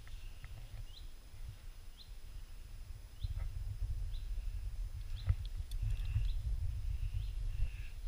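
A bird calling repeatedly in the forest, short rising chirps about once a second, over a low rumble from walking and movement that grows heavier about three seconds in, with a few soft knocks.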